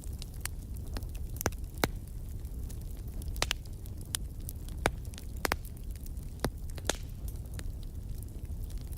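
Wood fire burning in a fireplace: a steady low rumble with sharp crackles and pops scattered throughout, a few louder snaps among them.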